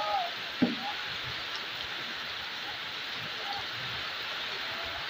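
Heavy rain falling steadily on a street, roofs and plants, a constant hiss. A single sharp knock comes just over half a second in, and a few faint short chirps sound near the start and again later.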